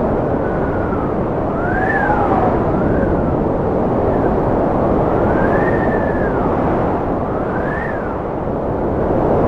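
Strong wind blowing steadily, with a howling whistle that rises and falls in pitch every second or two.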